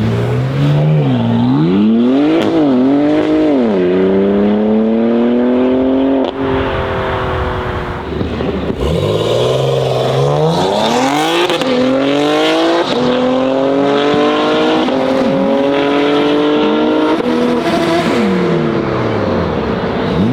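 BMW M3 G80's twin-turbo inline-six with an aftermarket exhaust, accelerating hard. The engine note climbs and drops through quick shifts, then cuts off suddenly about six seconds in. A second hard pull climbs through several upshifts and falls away near the end.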